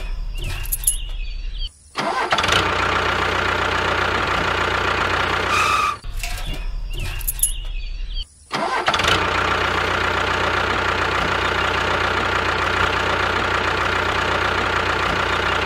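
Tractor engine sound effect: an engine starting, stopping for a moment, then running steadily. The same start and run plays again about six seconds in.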